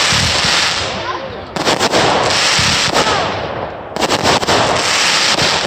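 Fireworks going off: clusters of sharp bangs about a second and a half in and again about four seconds in, each followed by a long, loud crackling hiss.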